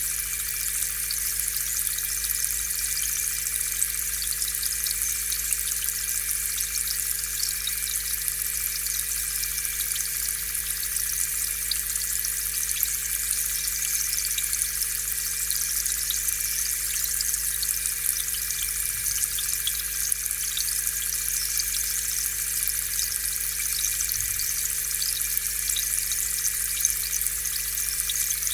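Aquarium air pump running steadily: a constant hum under a continuous fizz of tiny popping air bubbles rising through the tank water.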